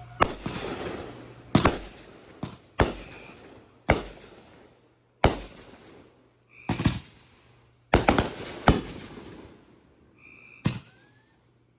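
Consumer fireworks going off: about ten sharp bangs at uneven intervals, each trailing off briefly, two close pairs among them.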